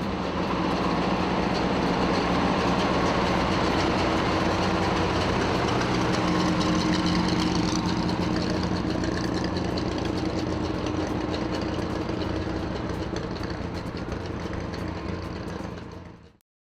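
Heavy truck engine running steadily at idle, fading out near the end.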